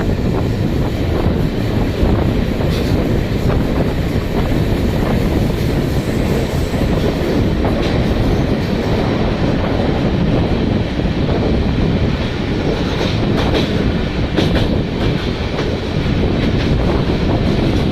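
Train in motion, a steady low rumble with occasional faint clicks.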